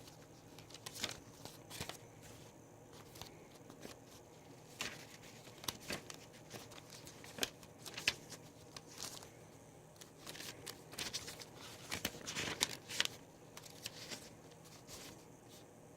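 Faint paper handling: pages and card of a handmade mini album rustling and crinkling, with scattered small clicks and taps.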